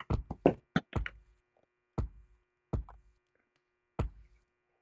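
A quick flurry of sharp knocks or taps, then three single knocks spaced out over the next few seconds, over a faint steady hum.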